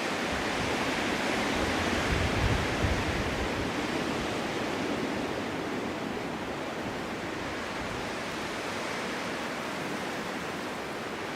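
Snowstorm wind blowing steadily, swelling into a stronger gust with a low rumble about two seconds in, then easing off.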